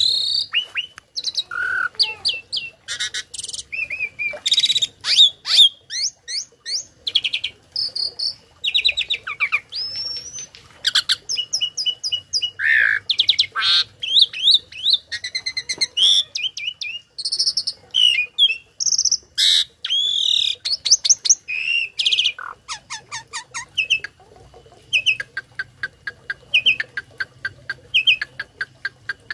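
Tame cage starling (jalak) singing a long, varied song of rapid chirps, trills and sliding whistles with almost no pauses, its song filled with mimicked calls of other birds.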